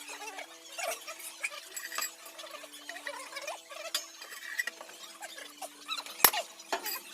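Scattered metallic clinks and clicks of tools and parts being handled, with a sharp knock about six seconds in, over faint background music of slow held notes.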